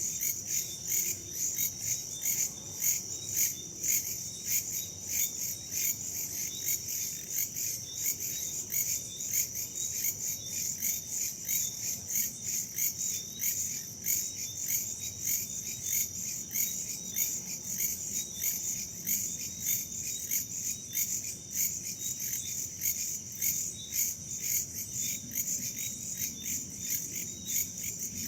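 A chorus of crickets and other night insects chirping in rapid, steady pulses, with a shrill high trill standing out over lower ones.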